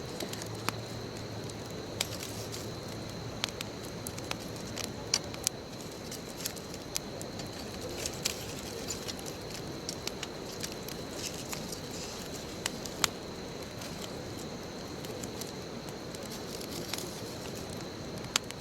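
Wood bonfire burning: a steady rush of flame with irregular sharp crackles and pops of the burning wood, a few of them loud snaps.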